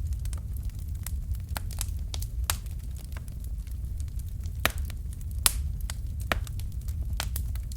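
Wood fire crackling: irregular sharp pops and snaps over a steady low rumble of the flames, with two louder pops about four and a half and five and a half seconds in.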